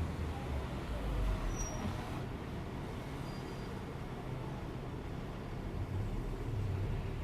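Steady low rumbling background noise, with a brief faint high whistle about one and a half seconds in.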